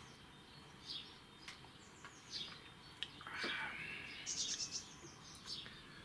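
Songbirds chirping and singing faintly: scattered short chirps, a falling whistle about three seconds in and a quick trill soon after. Two faint clicks fall among them.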